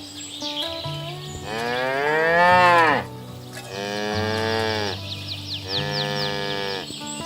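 Cows mooing: three long, drawn-out moos in a row, the first one the loudest and rising then falling in pitch.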